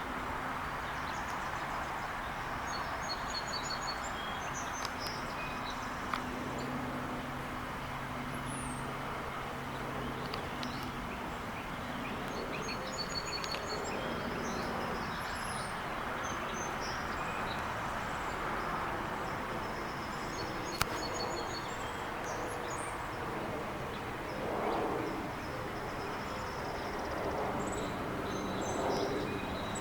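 Outdoor ambience: a steady hum of distant traffic, with an engine's low hum over it for the first ten seconds or so, and small birds chirping and trilling on and off throughout.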